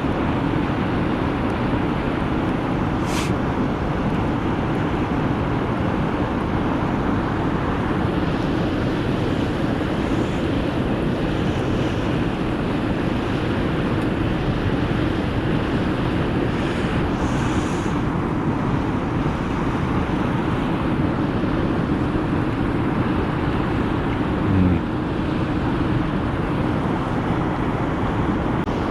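Steady rushing noise with one sharp click about three seconds in.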